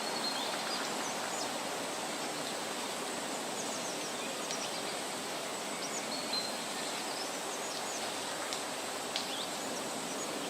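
Steady rush of flowing water, with scattered short, high bird chirps and a thin, steady, high insect whine above.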